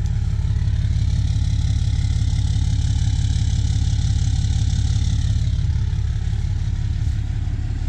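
2014 Ram 3500's 6.7-litre Cummins inline-six turbo diesel idling steadily through an aftermarket exhaust.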